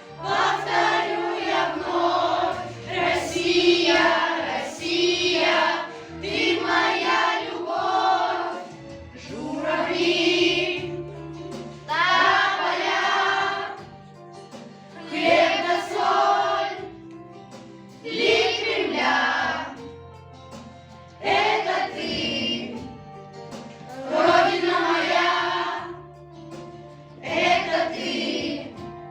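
Children's choir singing over an instrumental accompaniment, in sung phrases a few seconds long.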